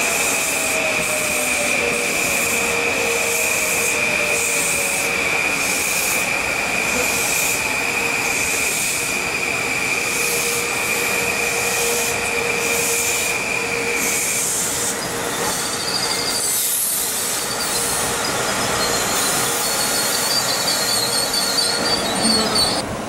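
Metro-North M8 electric multiple-unit train rolling past, wheels squealing with a steady high-pitched whine for about the first fourteen seconds over the rushing of wheels on rail and regular clicking. The squeal stops about two-thirds of the way through, and the rushing and clicking carry on.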